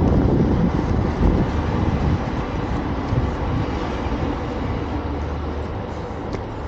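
Road traffic: a vehicle passing close by, its engine and tyre noise loudest at first, then fading steadily as it moves away.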